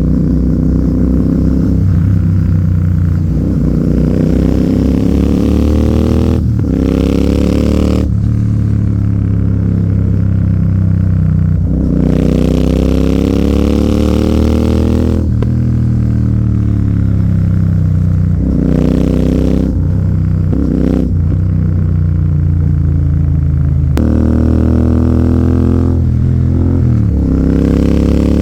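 Royal Enfield Continental GT 650's parallel-twin engine through an aftermarket AEW 103 exhaust, accelerating hard through the gears: the engine note climbs in pitch, then drops sharply at each gear change, over and over with some brief roll-offs between.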